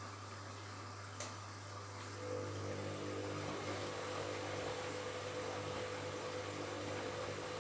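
Washing machine running with a steady hum; a single sharp click about a second in, then a motor starts up with a steady whine about two seconds in and keeps running.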